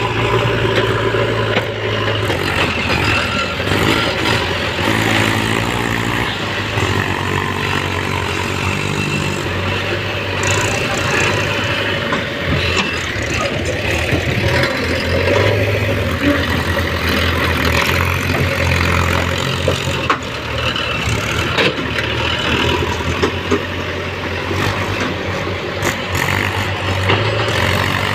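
Diesel engines of a backhoe loader and tractors running steadily, with the pitch and loudness shifting now and then as the engines are worked.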